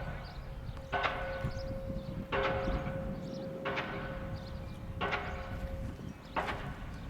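Diesel pile hammer driving a steel H-pile: five heavy blows about a second and a half apart, each leaving the steel pile ringing like a bell, over a steady low rumble.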